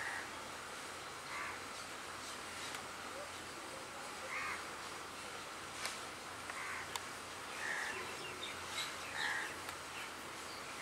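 A bird calling repeatedly, about seven short calls spaced a second or two apart, over a faint steady outdoor background.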